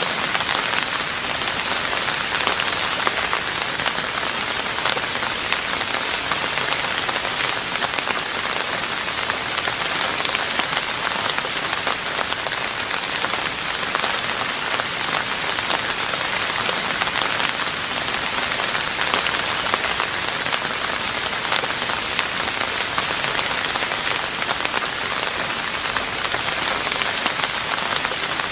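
Steady rain falling on a roof: an even hiss of drops with many small individual taps, unchanging throughout.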